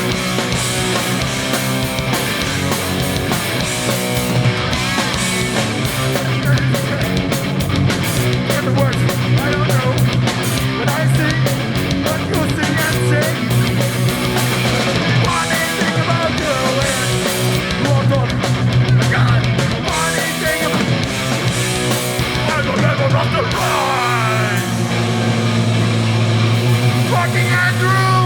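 Hardcore punk band playing live at full volume: distorted electric guitars, bass and fast drums.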